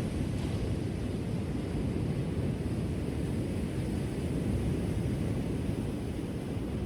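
Ocean surf as a steady low rumble, with no single wave breaking out clearly.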